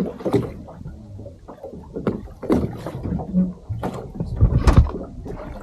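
Water slapping and knocking against the hull of a small boat at sea, in irregular splashes and thuds, the heaviest near the end.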